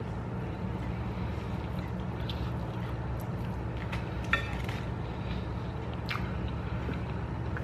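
A person chewing a mouthful of burger, with a few faint mouth clicks and smacks, over a steady low hum.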